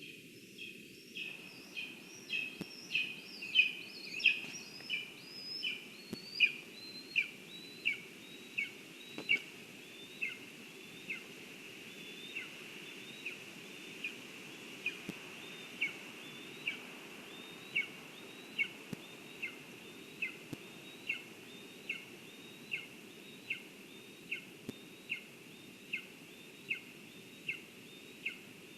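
A bird repeating one short, sharp call over and over, at first quick and loud, then about one note every three-quarters of a second, over a steady low hiss.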